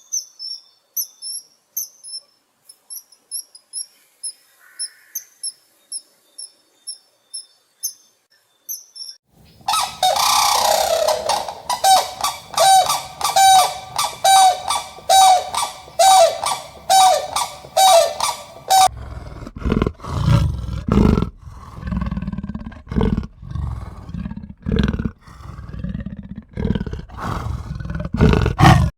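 A run of animal calls. First, fast high-pitched chirping for about nine seconds. Then loud pitched calls repeating about twice a second. Then, from about two-thirds of the way through, deep rough roars repeating about once a second.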